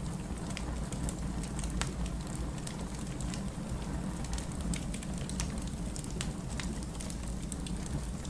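Firewood burning in a fireplace: irregular crackles and sharp pops, several a second, over a steady low rumble.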